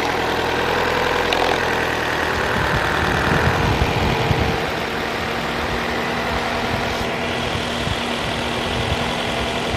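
Opel Astra H engine idling with a repeated knock from the engine. The owner places the knock somewhere at the back of the engine and rules out the gears.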